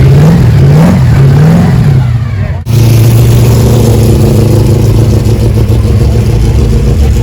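Muscle car engine revved in three quick blips, its pitch rising and falling each time. After a sudden break about two and a half seconds in, it is held at steady high revs.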